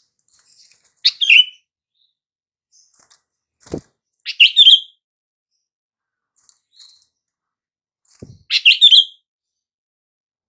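Sooty-headed bulbul (kutilang) calling: three short, bright call phrases a few seconds apart, with faint chirps between. A brief low knock comes just before the second and third phrases.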